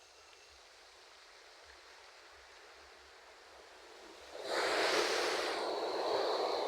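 Ocean waves on a shore: a soft, quiet wash for the first few seconds, then a wave breaks about two-thirds of the way in, and its loud rushing surf carries on to the end.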